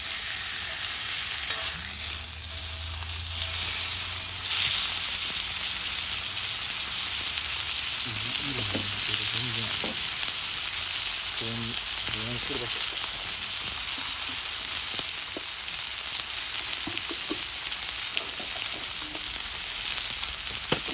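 Meat sizzling steadily as it fries in its own fat on a thick 6 mm steel griddle plate.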